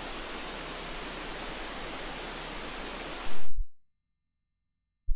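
Steady hiss of static from an open police radio or intercom channel, which ends with a brief low thump about three and a half seconds in and cuts to dead silence.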